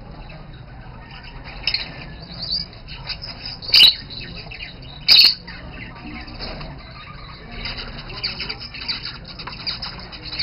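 Budgerigars chattering and warbling continuously, with two loud, sharp squawks about a second and a half apart near the middle.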